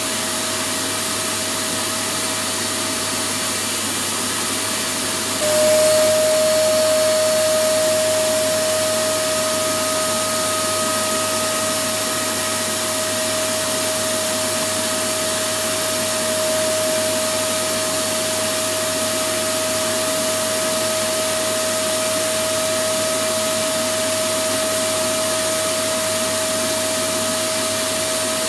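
Electric vacuum cleaner running continuously: a steady rushing noise with a constant whine. About five and a half seconds in it jumps abruptly louder and the whine sharpens, then it eases back to an even level over the next few seconds.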